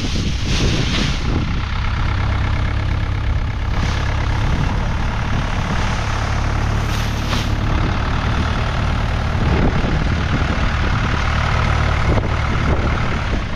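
Vehicle engine idling steadily, with gusts of wind buffeting the microphone.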